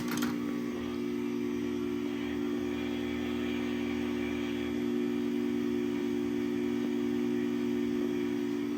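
Craftsman garage door opener with DieHard battery backup running through a closing cycle: a steady motor hum, stopping right near the end. There is a sharp click at the start.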